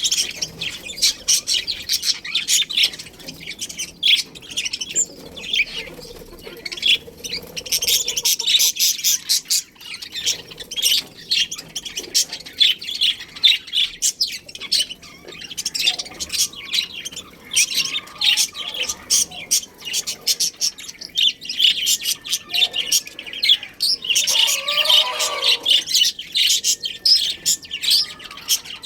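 A group of budgerigars chattering: dense, rapid, overlapping high chirps and warbles, with a lower, harsher call near the end.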